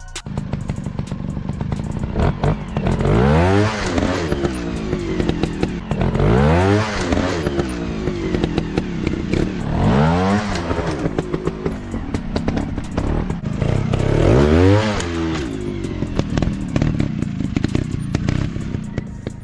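Off-road trail motorcycle engine revved up and back down four times, about every three to four seconds, settling to a rough idle in between, with a running clatter of ticks.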